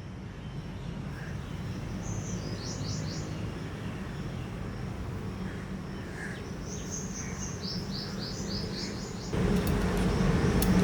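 A small bird chirping: two runs of quick, short, falling notes, the second longer, over a low steady hum. A louder hum cuts in suddenly near the end.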